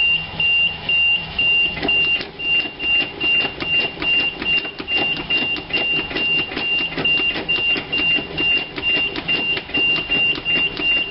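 GMC 366 V8 gasoline engine of a school bus being cranked by its starter with the choke out, turning over in an even rhythm without catching. The owner takes this for the mechanical fuel pump not getting fuel up to the rebuilt carburettor. A dashboard warning buzzer beeps about twice a second throughout.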